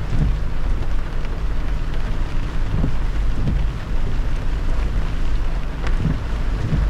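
Car driving on a wet highway in heavy rain: a steady low road rumble under the hiss of tyres on water and falling rain.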